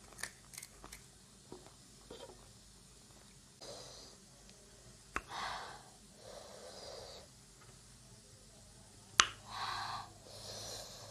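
A person breathing hard in and out through the mouth, hissing against the heat of chili-spicy panipuri: two audible in-and-out breaths, about five and nine seconds in, each preceded by a sharp mouth click, with a few small mouth clicks before them.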